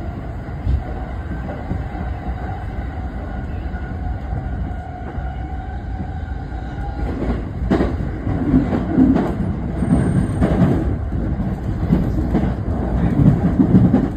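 Inside a moving electric commuter train: a steady running rumble with a faint steady whine. From about seven seconds in, the wheels knock and clatter over rail joints and points, getting louder near the end.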